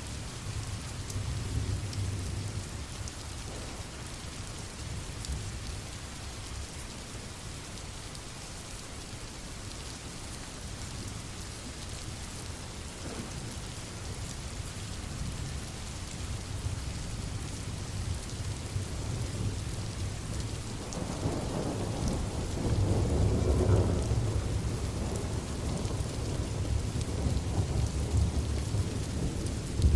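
Steady rain with rolling thunder. A long, deep thunder rumble swells about two-thirds of the way through, and the storm stays louder to the end.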